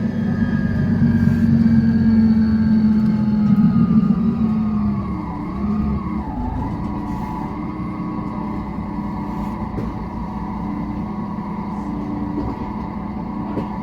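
Transperth bus TP 3008's diesel engine running under power with a steady hum. About five seconds in the revs drop briefly, and it then runs on steadily and a little quieter.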